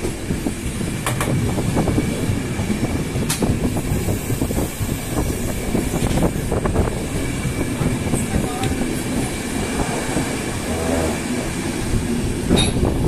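Passenger train running over the rails, heard from inside a moving coach: a steady rumble of wheels on track with a few sharp clicks.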